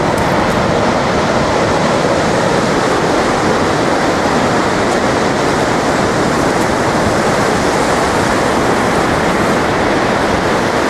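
Sea surf breaking and washing on the shore: a steady, loud rush of water.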